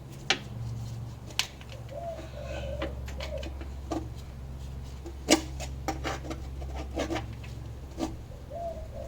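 Sharp metal clicks and taps of a small screwdriver being worked around the seam of a 1965 Ford Thunderbird's oil pan to break the stuck gasket seal, with a pigeon cooing in the background twice.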